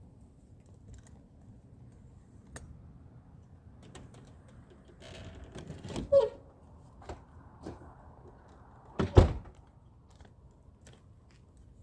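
Scattered faint clicks and handling noises, then a car trunk lid slammed shut with one loud thunk about nine seconds in.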